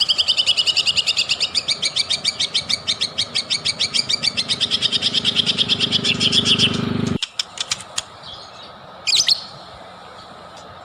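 White-rumped shama singing a long, fast trill of rapidly repeated high notes that cuts off suddenly about seven seconds in, followed a couple of seconds later by a single sharp, swooping whistled note.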